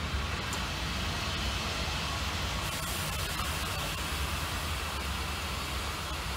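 Historic steam-hauled train of vintage passenger coaches rolling slowly past: a steady rumble of wheels on the track.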